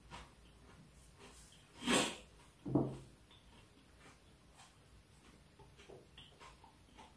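A man quietly chewing a bread sandwich, breathing through his nose, with a short sharp breath about two seconds in and a brief low sound just after it.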